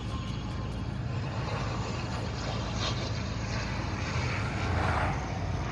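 Airliner's engines rumbling steadily as the plane passes at an airfield, a little louder about four to five seconds in.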